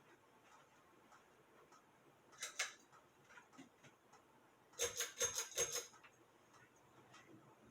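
Hunter Eclipse ceiling fan's pull-chain switches being worked: two clicks about two and a half seconds in, then a quick run of about six clicks a couple of seconds later as the fan is changed over to high speed. Faint steady ticking underneath.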